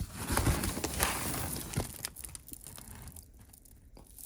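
A bag of mixed pigeon feed (peas, wheat, milo, seeds) being handled: rustling and rattling of grain, busiest for about the first two seconds, then quieter.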